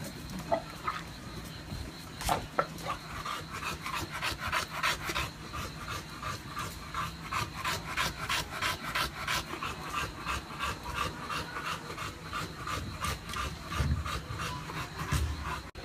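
English bulldog snuffling noisily, a long run of short rasping breaths about three a second, with a couple of low thumps near the end.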